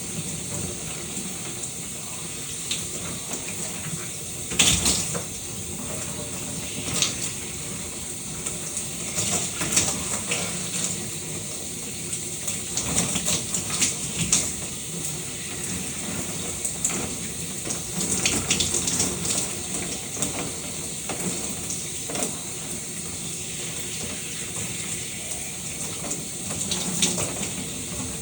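Shower running: a steady hiss of water spray, broken by irregular louder splashes, the strongest about five seconds in.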